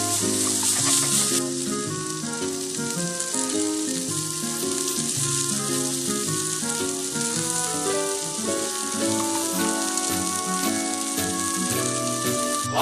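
Food frying in a pan, a steady sizzle, under background music with a plucked-sounding melody. The sizzle cuts off at the very end.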